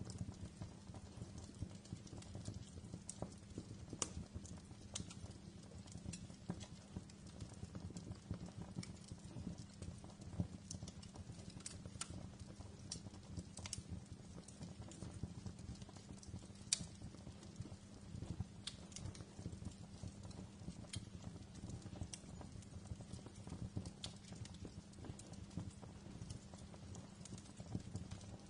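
Wood fire crackling in a fireplace: scattered sharp pops and snaps at irregular intervals over a steady low rumble of the flames.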